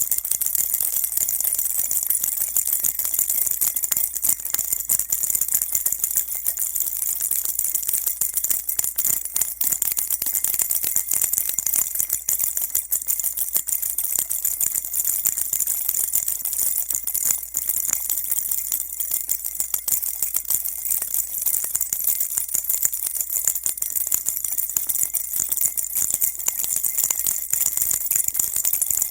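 Baby rattle shaken without pause: a dense, steady, high jingling rattle of many tiny beads or bells.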